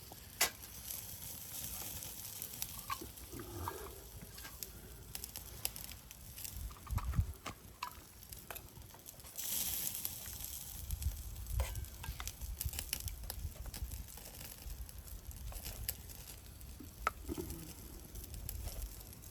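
Wood fire with food cooking over it, crackling and sizzling, with scattered sharp pops and occasional low rumbles.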